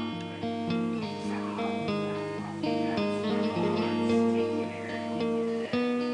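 Background music: strummed acoustic guitar, notes changing steadily.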